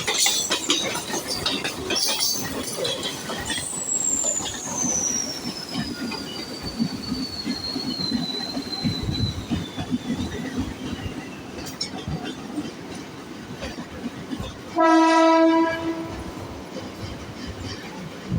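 Mumbai suburban electric local train running, its wheels clattering over the track, with a high whine that falls steadily in pitch over several seconds. About fifteen seconds in, the train horn sounds once for about a second, the loudest sound here.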